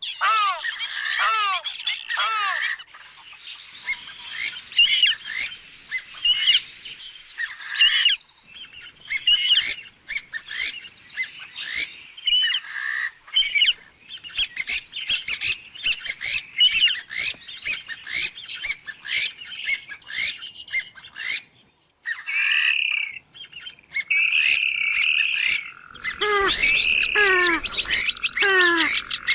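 Swamphen (trích cồ) calling: a dense run of short, repeated calls that slide downward in pitch, several overlapping, in bursts with brief gaps. A steady high whine joins in during the last few seconds.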